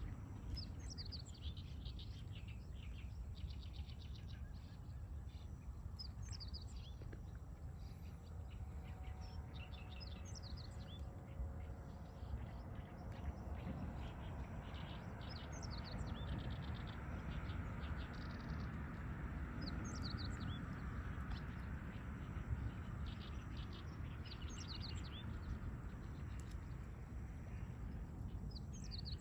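Dawn birdsong: small birds singing short, high chirping phrases that repeat every few seconds, over a steady low rumble.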